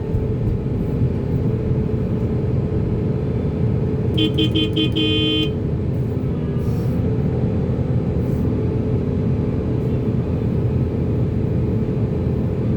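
Heavy diesel engine of a working excavator running steadily. About four seconds in, a vehicle horn sounds four quick short toots and then one longer toot.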